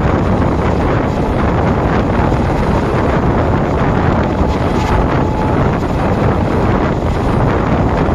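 Wind rushing over the microphone beside a fast-moving passenger train coach, over the steady running noise of its wheels on the track.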